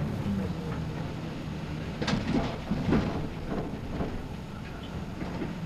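City bus running sound from the front of the cabin: the engine hum fades early on, and there are sharp knocks about two and three seconds in, followed by lighter rattles of the bus body and fittings.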